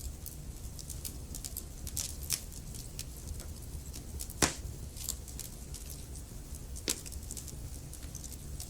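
Wood fire crackling: scattered sharp pops and snaps over a low steady rumble, the loudest pop about four and a half seconds in.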